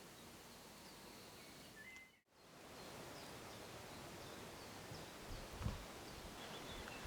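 Faint outdoor ambience with small birds chirping now and then. The sound drops out briefly about two seconds in, and a low bump comes later.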